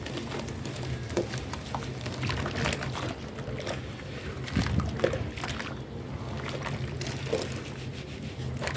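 Wet cement paste being crushed and worked in water: irregular squelching and crackling with small sloshes, a few louder squelches around the middle.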